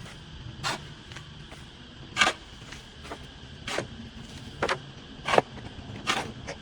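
Hand tools striking and scraping through overgrown weeds and grass as they are cleared. The strokes are short and swishing, coming irregularly about once a second, some louder than others.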